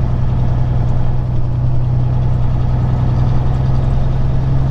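Peterbilt 379 semi-truck's diesel engine running steadily, heard from inside the cab as a deep, even drone.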